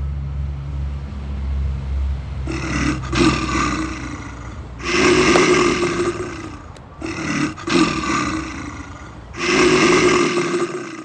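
Four loud monster roars in a row over a deep, steady low rumble.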